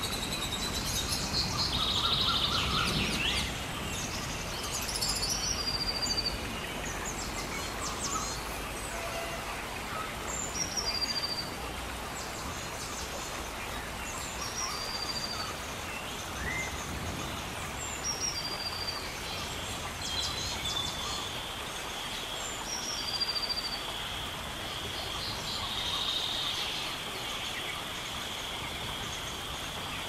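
Birds calling over a steady rush of water in a rainforest ambience: short high whistled notes recurring every few seconds, with a steady high-pitched hum joining about two-thirds of the way in.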